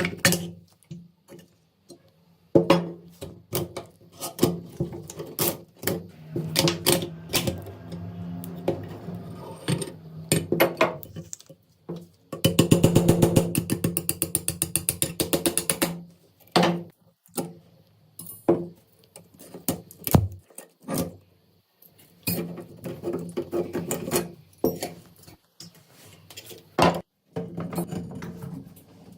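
Metal clicks and knocks from an AK-47's rusty parts being handled and worked, coming in irregular bunches, with a fast run of clicks lasting about three seconds near the middle.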